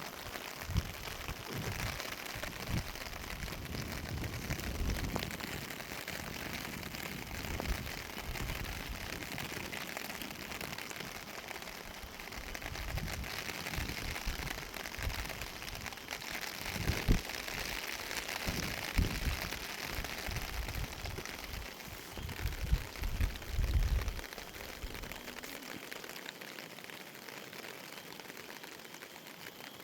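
Rain shower falling as a steady hiss, with irregular low rumbles and bumps on the microphone that die away near the end.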